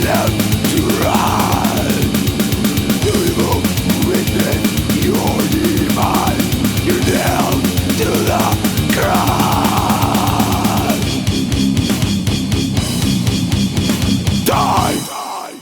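Death metal band playing, with heavily distorted guitars and drums, from a 1995 cassette recording. The music stops abruptly near the end, leaving a short fading ring.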